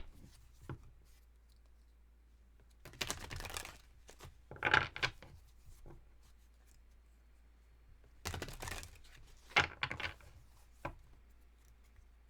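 Tarot cards being handled, shuffled and laid down in several short, scratchy bursts, about three, five and eight to eleven seconds in.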